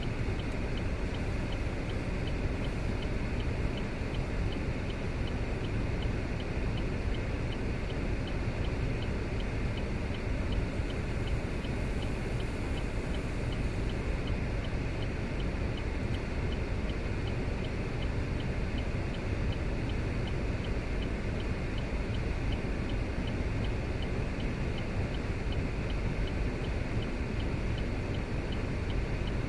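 Steady road and tyre rumble heard from inside a moving car, with a faint regular ticking.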